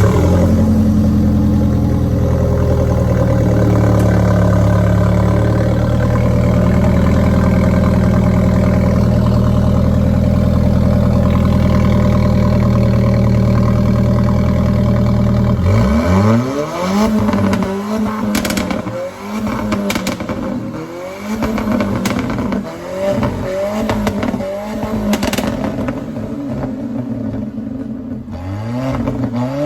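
Alfa Romeo 4C Spider's 1.7-litre turbocharged four-cylinder running at a steady high idle just after starting. About halfway through it is revved again and again, each blip rising and falling in pitch, with a few sharp cracks from the exhaust.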